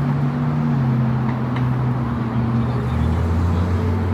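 Motor traffic passing close by on a city street: vehicle engines running with a low steady drone over tyre and road noise, the drone dropping in pitch about three seconds in.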